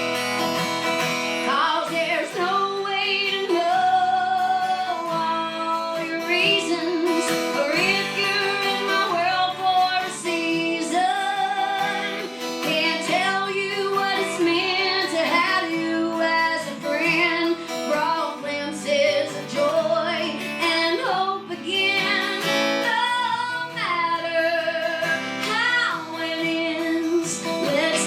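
A woman singing a song live over acoustic guitar, her voice sliding between long, held notes.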